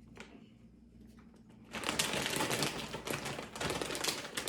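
Dense crinkling and crackling from a snack and its packaging handled close to the microphone, starting about two seconds in after a quiet stretch.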